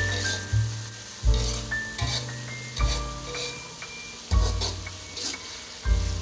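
Vegetables sizzling in hot oil in a wok as a spatula stirs them, under background music with a deep bass note every second or so.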